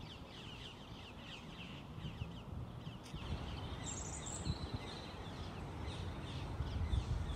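Small birds chirping: a fast, continual series of short falling notes, over a low rumble that grows louder toward the end.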